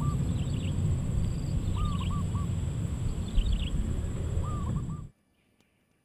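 A bird calls in short groups of three or four clipped notes, one group about every one and a half to two seconds, over a steady low rumble and a thin, steady high whine. All of it cuts off suddenly about five seconds in.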